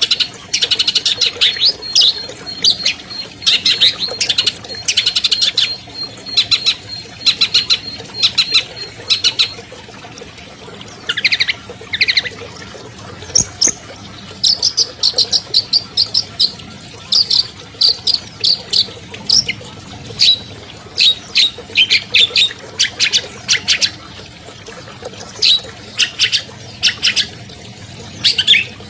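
Long-tailed shrike (cendet) singing a fast, chattering song of quick sharp notes in short phrases, a varied song full of mimicked fill-in calls. A thin steady high whistle runs under it for about the first nine seconds.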